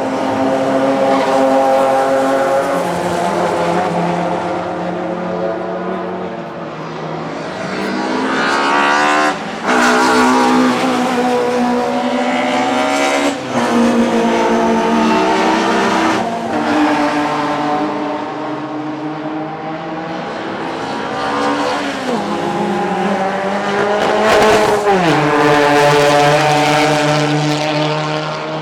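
Classic DTM touring-car engines racing past one after another, loud throughout. The pitch climbs under acceleration with brief breaks at gear changes and drops as a car slows.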